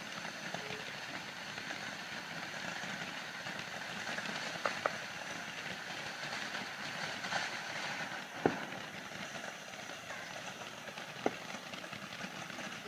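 Firework torch burning with a steady hiss of sparks, with a few sharp pops or crackles: a pair a little under five seconds in, one at about eight and a half seconds and one near eleven seconds.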